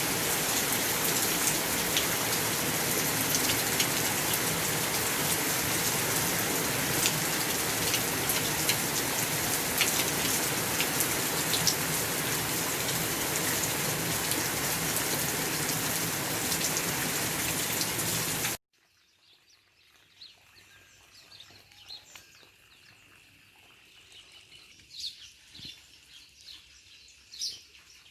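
Heavy rain pouring down, with scattered sharp drop impacts, cutting off suddenly about two-thirds of the way through. After the cut, birds chirp over a much quieter background.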